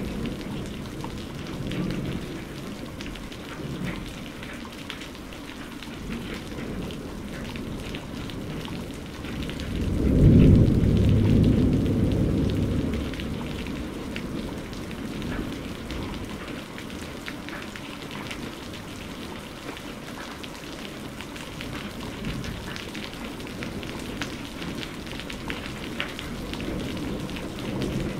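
Steady rain falling, with scattered drops pattering. About ten seconds in, a rumble of thunder swells and fades over a few seconds, and there are fainter rumbles near the start and near the end.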